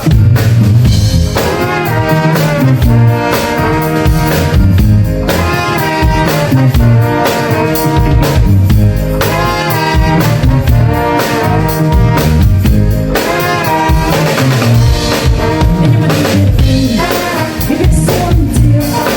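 Live band playing an instrumental passage: drum kit and bass under a brass-like melody line.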